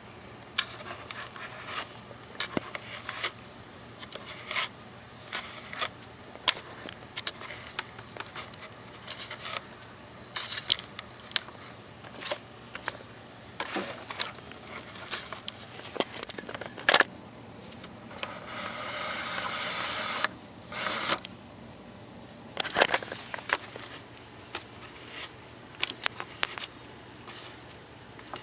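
Scattered rustling, scraping and light clicks of things being handled, with a longer scraping rush about two-thirds of the way through; no vacuum motor running.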